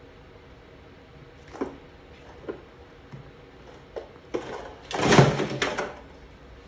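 A cupboard door being knocked and worked: four light knocks a second or less apart, then a louder rattling clatter lasting about a second and a half, starting just past four seconds in.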